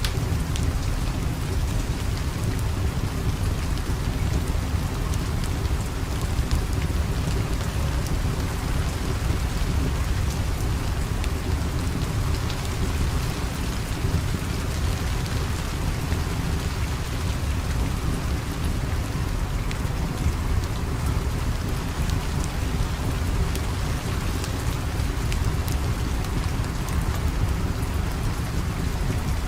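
Steady, heavy rain with a deep low rumble beneath it and scattered sharp ticks of drops.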